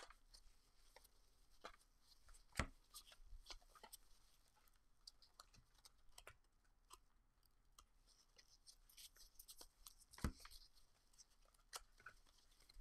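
Quiet handling of chrome trading cards: faint rustles and light clicks as cards are slid and set down, with two sharper taps, one about two and a half seconds in and one about ten seconds in.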